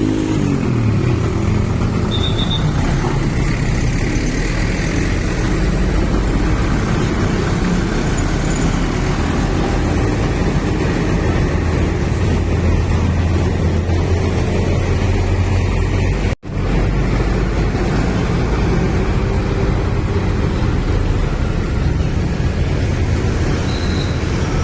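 Diesel engines of loaded sugarcane trucks running and moving slowly, with traffic noise; the engine pitch falls just at the start as one eases off. The sound drops out for an instant about two-thirds of the way through.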